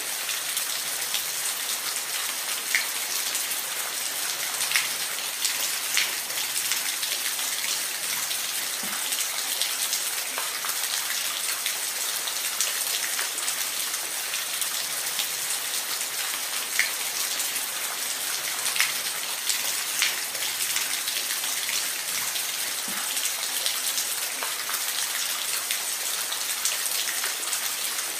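Steady rain falling, with occasional louder single drops striking a surface.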